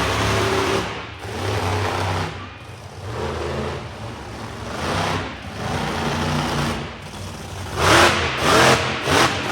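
Monster truck engine revving in repeated bursts, its pitch rising and falling, with the loudest burst about eight seconds in.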